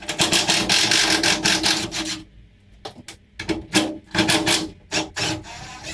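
Ratchet spanner undoing the bonnet hinge bolts: a long run of rapid rasping clicks, then several shorter runs.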